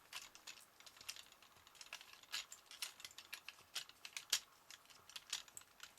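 Plastic parts of a Transformers Generations Voyager Sandstorm figure clicking and rattling as they are folded and handled, a string of irregular light clicks with a sharper one about four seconds in.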